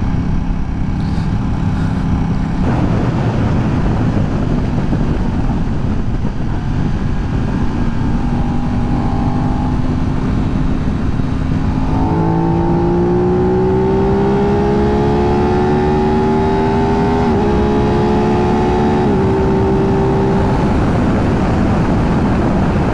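Aprilia 660 parallel-twin motorcycle engine under way, with wind rush on the rider's microphone. It runs steadily, then pulls harder about halfway through, its pitch climbing slowly with a couple of brief dips. Near the end the throttle closes and the engine note fades into the wind.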